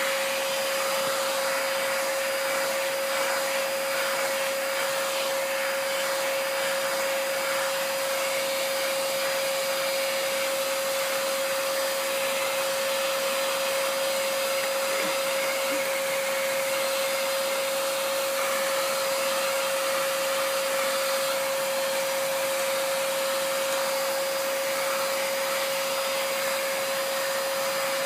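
Vacuum cleaner running steadily: a constant hum over the rush of air, unchanging throughout.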